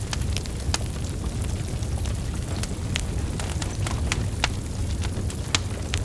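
Wood fire of burning logs: a steady low rumble of flames with irregular sharp crackles and pops, about two or three a second.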